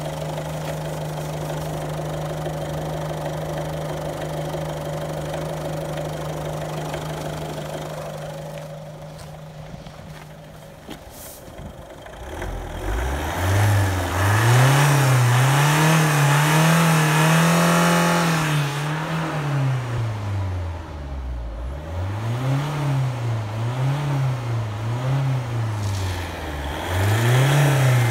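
Mazda 6 2.0 RF7J four-cylinder turbodiesel idling steadily, then, after a brief dip about ten seconds in, revved up and let back down repeatedly: one long rev followed by several shorter blips.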